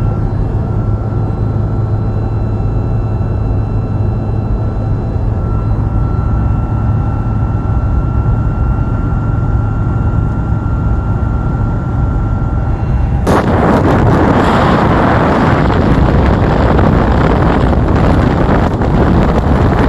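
Vehicle driving: a loud, steady low rumble of engine and road noise with a faint steady whine on top. About thirteen seconds in it abruptly turns into a louder rushing noise.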